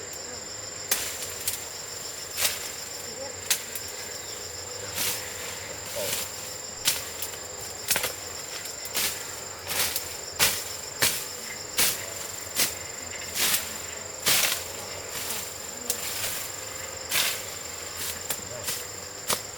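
Repeated sharp chopping strikes of a hand tool, irregular at about one or two a second, over a steady high chirring of insects.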